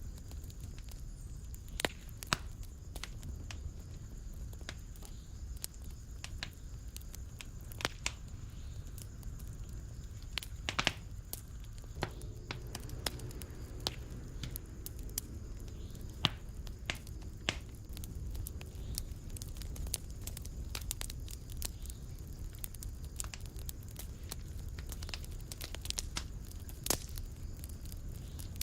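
Wood fire in a fireplace crackling: sharp pops and snaps at irregular intervals over a low, steady rumble of the flames.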